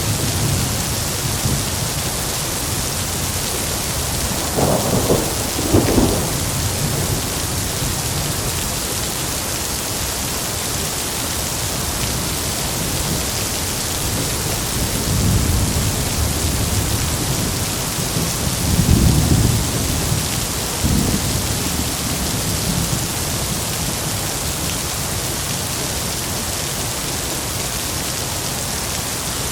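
Heavy rain falling in a steady hiss, with thunder rumbling low several times: a double roll about five seconds in, and more rolls around halfway and two-thirds through.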